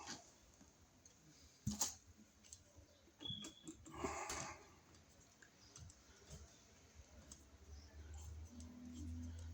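Faint clicks and a brief scratchy rustle as the copper ground wires and a hand tool are handled in the outlet box, with one sharp click about two seconds in.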